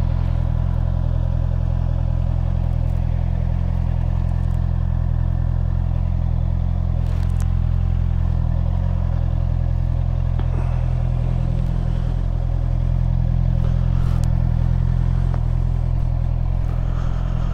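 Honda CBR650R's inline-four engine idling steadily at low revs.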